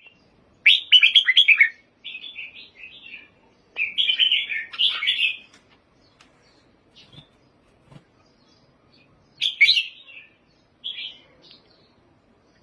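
Red-whiskered bulbul singing: several short, quick song phrases of about a second each, with a long pause in the middle before two more phrases near the end.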